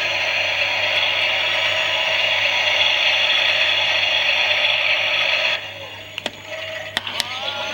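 Toy Klein Miele washing machine's small electric motor turning the drum, a steady whir with a plastic gear rattle, which stops suddenly about five and a half seconds in. A few sharp clicks follow, then a tone that rises and holds steady near the end.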